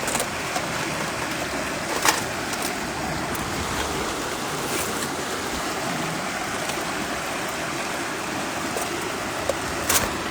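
Waterfall's rushing water, a steady even roar, with a couple of sharp clicks or knocks about two seconds in and again near the end.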